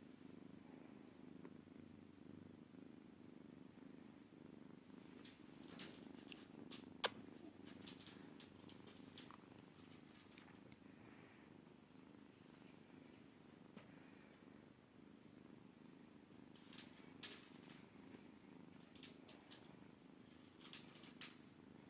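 Maine Coon kitten purring steadily and faintly, with a few small clicks over it, the sharpest about seven seconds in.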